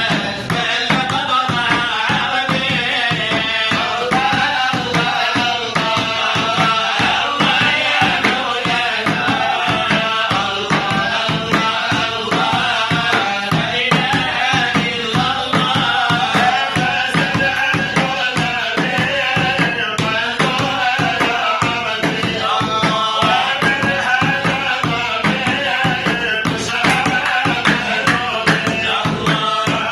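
Folk music: singing over a dense, steady beat of hand drums and percussion.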